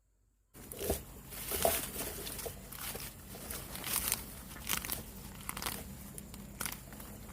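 Rustling and crunching of vegetation being handled, with irregular sharp crackles; it starts abruptly about half a second in.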